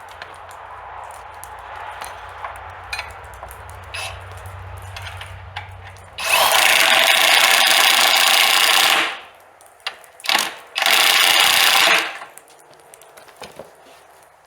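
Electric drill boring a bolt hole through the wooden boards of a sawmill carriage: a run of about three seconds, two short trigger blips, then a second run of about a second. Before it come light clicks and handling knocks over a low, steady hum.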